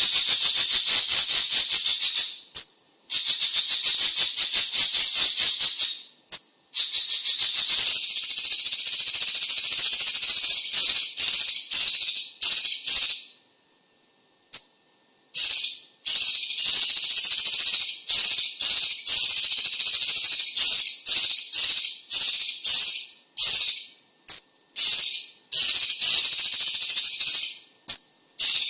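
Cucak cungkok songbird calling: long runs of rapid, high-pitched chattering notes, each run opened by a short whistled note. The runs last a few seconds with brief pauses between them, getting shorter and choppier in the second half.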